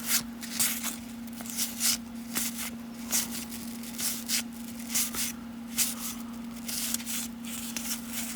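Baseball cards being flipped through one at a time, each card sliding off the stack with a short papery swish about once or twice a second, over a steady low electrical hum.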